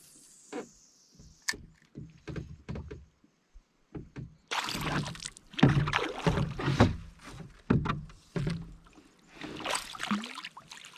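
Fishing from a canoe: scattered knocks of gear against the hull, then a loud stretch of splashing and rustling from about halfway through as a small largemouth bass is brought in and landed.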